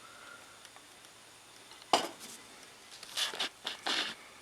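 A sharp metallic knock about two seconds in, then a few short scuffing sounds near the end, from handling the stainless steel exhaust tip.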